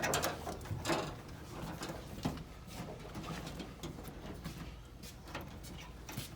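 Rubber wiring-harness snorkel tube and grommets being pressed and snapped into body holes: scattered short rubbery squeaks and handling noises, the loudest near the start and about a second in.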